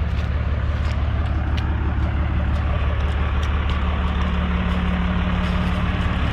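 A truck engine running steadily at a low, even pitch, with no revving.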